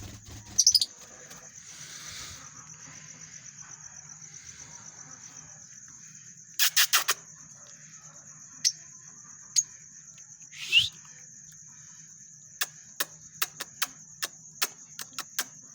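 Pet lovebirds squabbling, giving short, sharp chirps and squawks: a burst about seven seconds in, a rising call near eleven seconds, then quick chirps two or three a second near the end. A steady high-pitched whine runs underneath.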